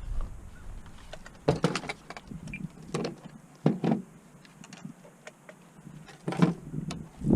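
Scattered short knocks and clicks, bunched into a few clusters about a second and a half in, around three to four seconds in, and again near the end, over a low rumble.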